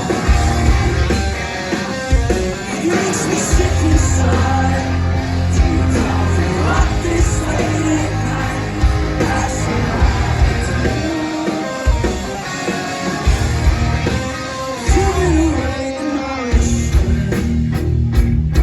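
Live rock band playing, loud and full, with electric guitars, heavy bass and drums under a sung vocal line.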